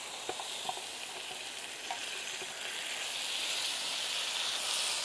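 Food sizzling as it is laid onto the hot spot of a flat-top griddle, the frying hiss growing louder over the seconds, with a few light clicks of the utensil against the griddle in the first two seconds.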